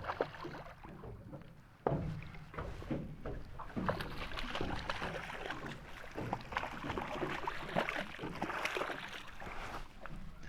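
Water splashing and sloshing around a small fishing boat, with scattered knocks and clicks; a sharp knock comes about two seconds in.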